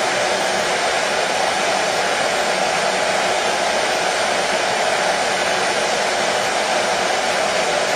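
Hair dryer running steadily, a constant whooshing rush of blown air and fan motor with no change in speed, used as white noise to soothe a colicky baby to sleep.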